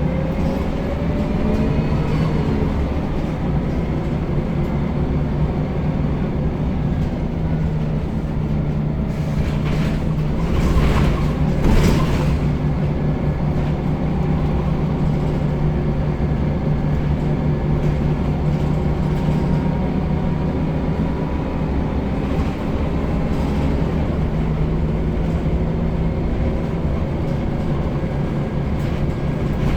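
Scania L94UB single-deck bus heard on board: the diesel engine and transmission whine rising in pitch as it pulls away, then settling into a steady running hum. Body rattles and a few sharp knocks from bumps about ten seconds in.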